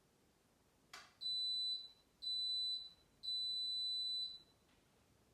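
Washing machine's end-of-cycle signal: a click, then three steady high-pitched beeps, two short and a longer last one, marking the end of the wash.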